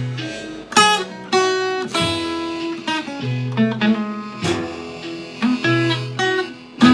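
Blues guitar playing an instrumental passage: plucked single notes and chords, each struck sharply and ringing away, over low bass notes.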